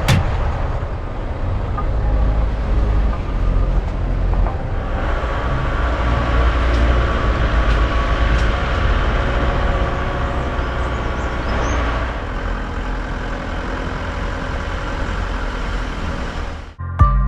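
Road vehicle running, a steady low rumble of engine and road noise that cuts off abruptly near the end.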